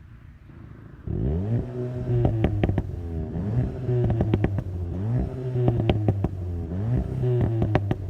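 VW Golf GTI TCR's 2.0-litre turbocharged four-cylinder accelerating hard, its note climbing and dropping back through several quick upshifts, with exhaust crackles and pops around the shifts.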